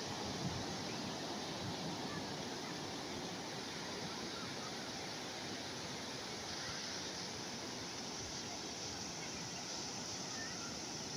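Calm sea waves washing ashore in a steady, unbroken wash of surf.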